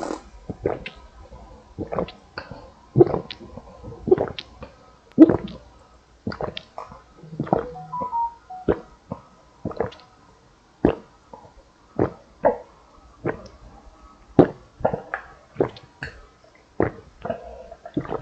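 Close-miked gulps of grapefruit juice being chugged: about one swallow a second, each a short wet gulp.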